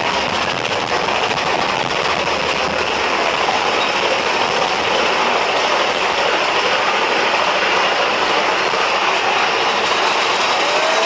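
Mine-train roller coaster running along its track, heard from aboard: a steady, loud rattle and rush of wheels on rail.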